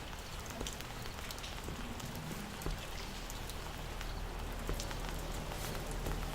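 Steady rain falling, with many close, sharp drop impacts over a low rumble.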